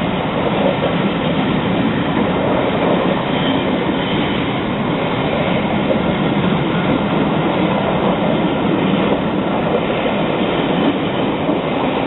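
Passenger train moving along the track at close range: a loud, steady noise of wheels and carriages on the rails.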